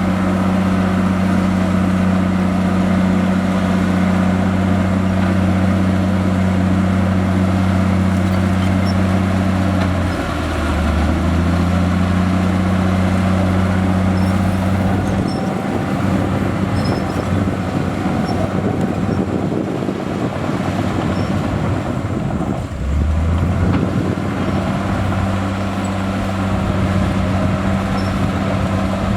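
Heavy diesel engine of earthmoving machinery running steadily under load. Its pitch dips briefly about ten seconds in, and its deep hum thins out for several seconds in the middle before coming back.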